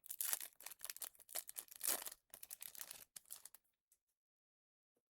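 Trading cards and pack wrapper being handled: a run of quick rustling, sliding and crinkling that stops about three and a half seconds in, followed by a faint click near the end.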